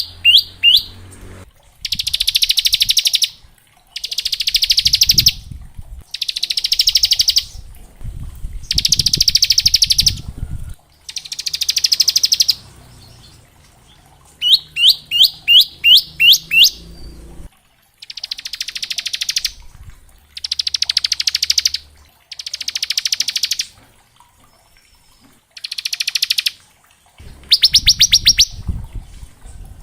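Bar-winged prinia (ciblek) singing in the rattling 'ngebren' style: repeated rapid buzzing trills about a second long with short gaps between them, broken near the start and again around the middle by a run of quick rising notes.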